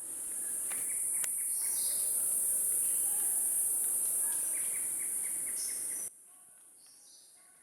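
Rainforest insect chorus: a loud, steady, high-pitched buzz, with short bird chirps and calls over it. About six seconds in the buzz cuts off suddenly, leaving fainter insects and birds.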